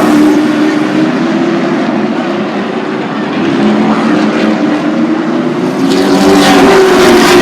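Racing super trucks' engines running at speed on a short oval track, several engines overlapping, growing louder about six seconds in as the pack comes by.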